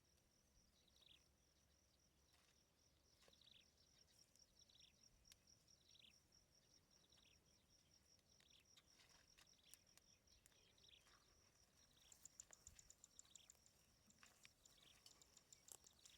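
Faint outdoor chorus of insects: a steady high trill throughout, with short falling calls repeating about once a second, and a faster, higher pulsing trill joining about twelve seconds in.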